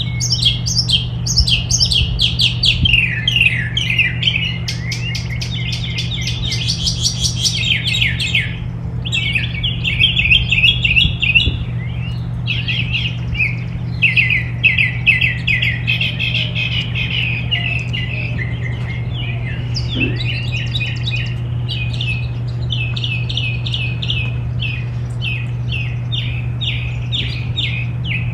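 Small songbirds chirping and twittering without a break, many quick overlapping chirps, over a steady low hum.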